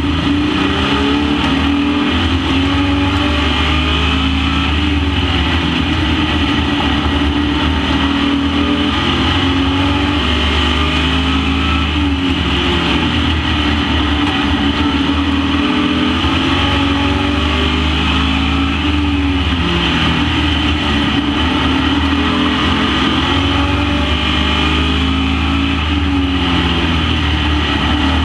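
Super Pro racing truck engines running hard around a short oval. The engine pitch rises and falls over and over, several engines overlapping, with no break.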